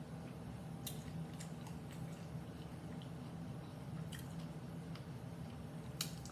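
Mouth noises of chewing and biting a crunchy hard-shell corn taco close to the microphone, with a few sharp crunches about a second in, near four seconds and near the end.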